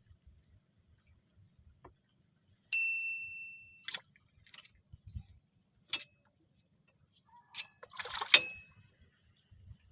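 A small metal object struck once, ringing as a clear high ding that fades over about a second, followed by scattered metallic clicks and clinks, with a second, shorter ding near the end.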